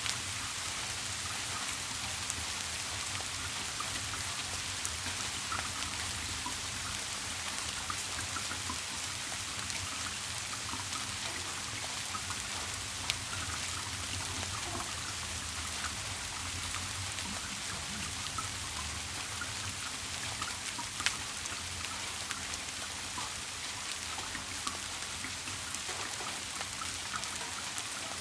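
Steady rain falling, an even hiss with scattered individual drops pattering and a couple of sharper drip clicks, over a faint low steady hum.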